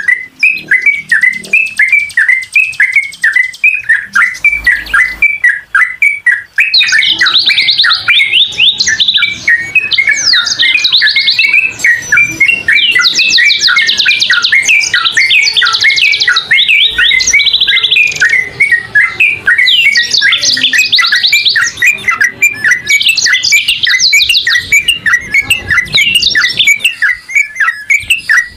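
Songbirds calling: a short chirp repeated about three times a second throughout, joined from about seven seconds in by repeated bursts of fast, high-pitched trills.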